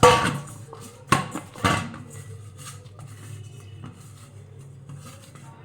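Kitchen utensils and a metal bowl knocking and clattering: three sharp, ringing knocks in the first two seconds, then quieter handling sounds.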